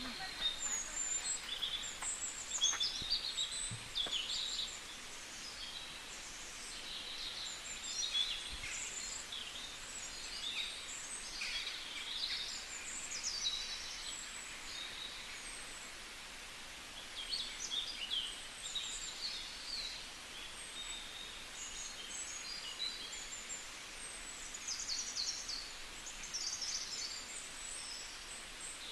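Several birds singing and calling, many short high chirps and whistles overlapping throughout, over a steady outdoor hiss.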